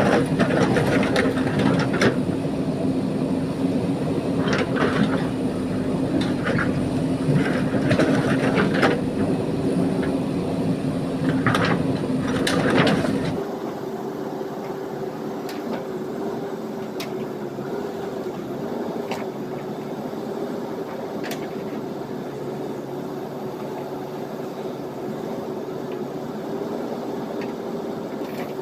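JCB backhoe loader's diesel engine running under load, with knocks and clatter of the bucket working gravel through the first half. About halfway through, the sound changes abruptly to a quieter, steadier engine hum with only occasional knocks.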